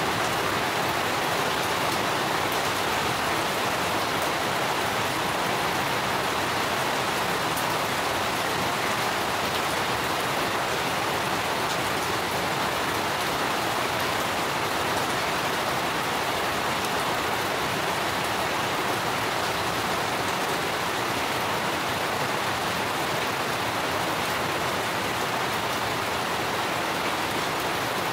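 Steady rain falling on garden foliage and hard surfaces, an even hiss that holds constant throughout.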